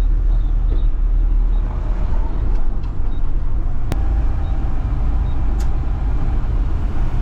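Front-load garbage truck's engine running as it drives, a steady low rumble, with a single sharp click about four seconds in.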